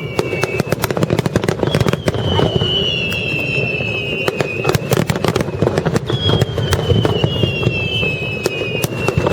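A fireworks display: dense crackling and bangs from bursting shells over a constant low rumble, with three long whistles that each glide down in pitch over a few seconds.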